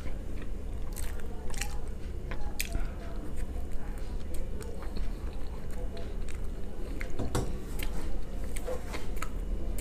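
Close-up chewing and biting of a pizza slice: irregular sharp mouth clicks and smacks, with a steady low hum underneath.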